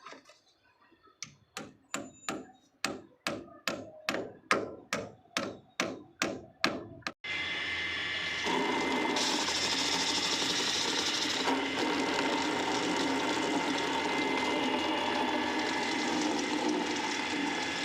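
A rapid, even series of about sixteen sharp knocks, growing louder, like hammer taps. It cuts off suddenly and gives way to a steady rushing noise like water running, which grows louder a couple of seconds later.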